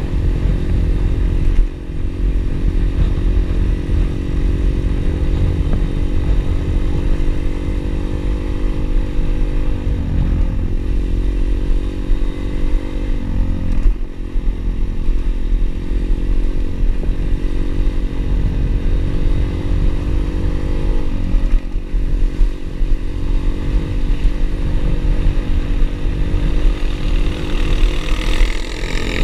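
Pit bike's single-cylinder engine running steadily while riding, its pitch dipping briefly three times as the throttle is eased or gears change, over a constant low rumble.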